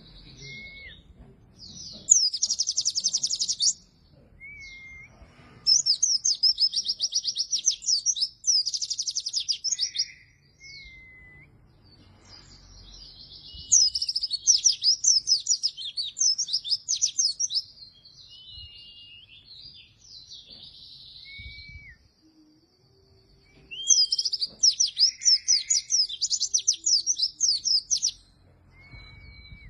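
White-eye (pleci) in full song: four loud bursts of rapid, high chattering notes, each lasting a few seconds, separated by soft short whistles.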